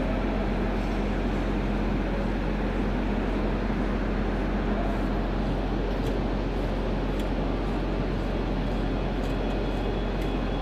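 Sewing machine running at a steady speed: a continuous mechanical whir over a constant low hum.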